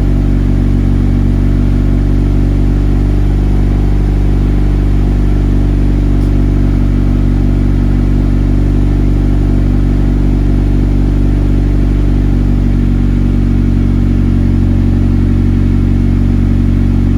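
Honda Civic EK hatchback's engine idling steadily after a cold start.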